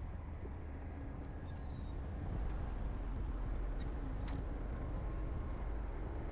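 Heavy earthmoving machine's diesel engine running steadily with a deep, low rumble, and a single sharp click about four seconds in.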